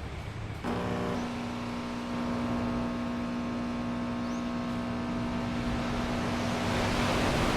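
A motor vehicle's engine runs with a steady pitched drone that comes in suddenly just under a second in, with a rushing noise that grows toward the end.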